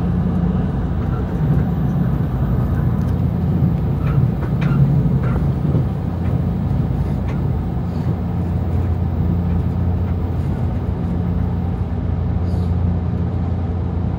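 Running noise inside a JR Kyushu 883 series limited express passenger car: a steady low rumble and hum from the train moving along the track, with a few faint ticks.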